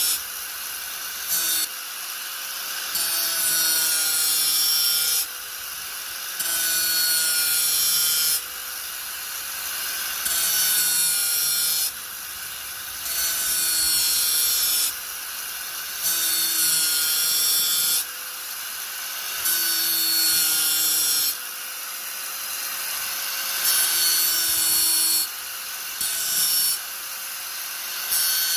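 Angle grinder running steadily, its disc pressed into the work again and again in grinding passes of about two seconds, each one rising into a loud, harsh hiss and dropping back to the free-running whine between passes.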